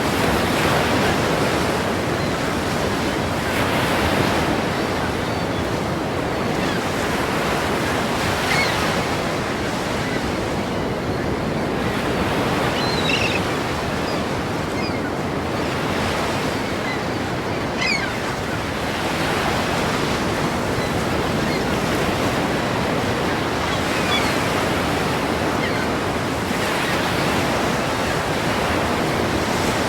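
Ocean surf breaking continuously, a steady rush of water that swells every few seconds as waves come in. A few faint high chirps sound now and then.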